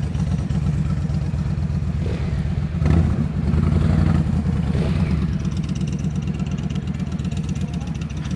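Motorcycle engine running at low revs with a steady, even beat, rising briefly about three seconds in.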